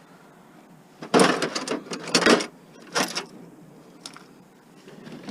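Metal sockets and tools clattering as they are rummaged through in a socket set or toolbox. There is a rattling burst of clatter about a second in and a shorter one about three seconds in.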